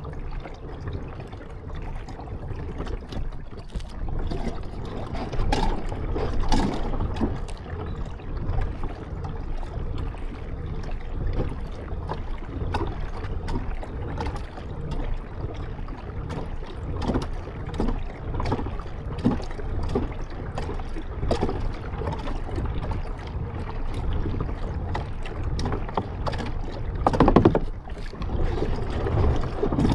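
A kayak being paddled: irregular paddle splashes and small knocks over a steady low rumble, with one louder splash or bump near the end.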